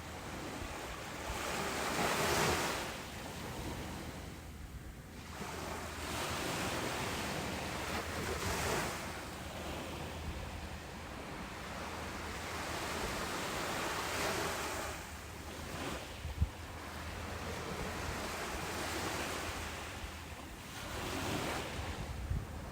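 Ocean surf breaking on a beach: waves swell and wash in several times, each rising and falling away over a few seconds. A single short thump comes about two-thirds of the way through.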